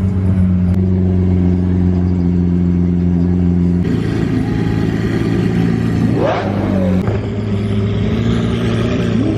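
Car engine running steadily, its note shifting about four seconds in, with a short rev that rises and falls about six seconds in.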